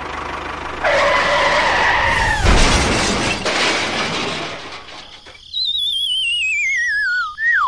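Cartoon-style sound effects: a tyre-skid screech that ends in a crash with breaking glass about two and a half seconds in. Then, from about halfway through, a wobbling whistle tone slides downward, like a falling or dizzy gag effect.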